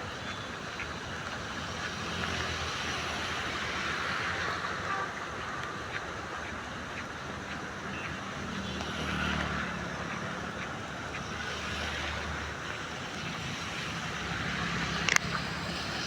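Steady rain with vehicles passing on a wet road, their engines swelling and fading twice. Scattered small clicks and one sharp knock near the end.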